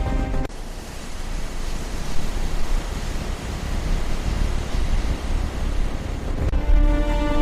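A steady rushing noise with a deep rumble, with no clear tone in it. Music cuts out about half a second in and comes back near the end.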